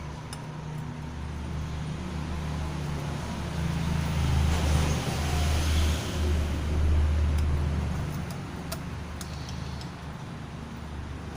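A low engine rumble that swells from about three and a half seconds in and fades again by eight seconds, with a few light clicks near the end.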